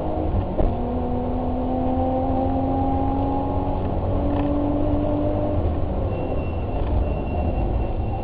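Car engine running steadily while driving, its pitch drifting slowly and shifting a few times over a constant low rumble. There is one sharp click about half a second in.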